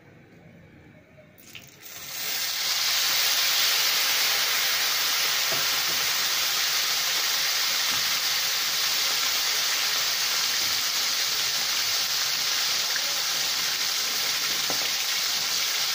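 Batter-coated chicken breast piece going into hot ghee in a wok: a sizzle starts suddenly about two seconds in and keeps up steadily as the chicken deep-fries.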